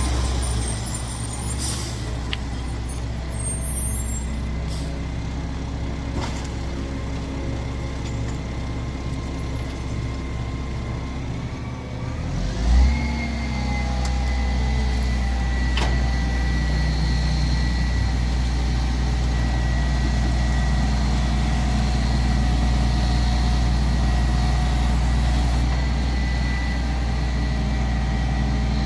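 Mack MR rear-loader garbage truck's diesel engine running steadily. About halfway there is a short loud thump, and the engine picks up to a higher, louder steady speed. A high whine rises with it and is then held.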